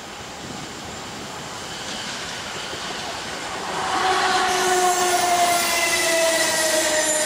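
Electric multiple-unit train coming in, its running noise growing louder. About four seconds in, several high whining tones set in and slide slowly down in pitch as it slows.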